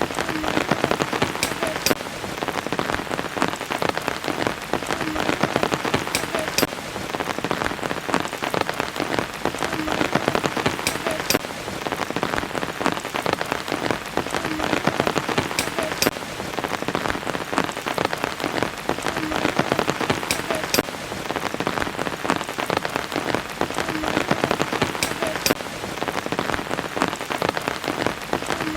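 Steady rain falling, with a dense patter of individual drops striking surfaces.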